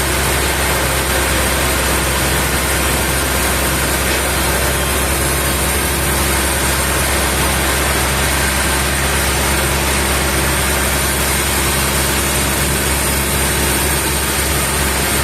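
Sawmill machinery running steadily with an even, unchanging engine-like hum.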